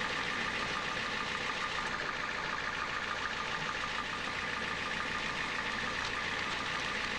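Recycling truck's engine running steadily at idle with the power take-off engaged, driving the hydraulics that dump the load.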